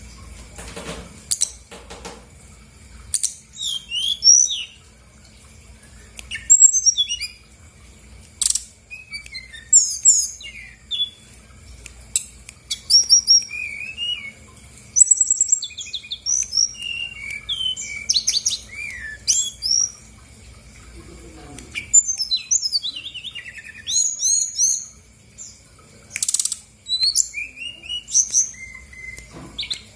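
Brown-chested jungle flycatcher (sikatan rimba dada coklat) singing in its full, varied song: quick bursts of high chirps, trills and twittering phrases with short pauses between them.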